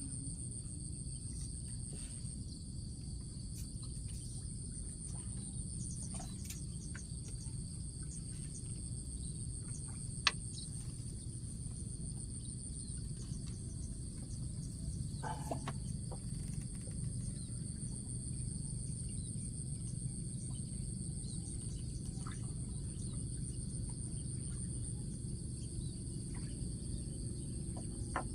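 Insects trilling steadily in a continuous high-pitched buzz, over a low steady rumble. A single sharp click about ten seconds in.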